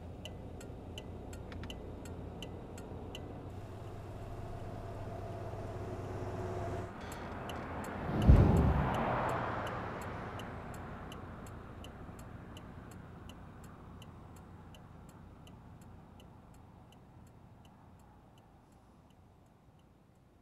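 Steady car engine hum with a regular ticking, the hum cutting off about seven seconds in. A second later comes a single loud low boom that rings on and fades away slowly over the next ten seconds, with the ticking still faintly audible under it.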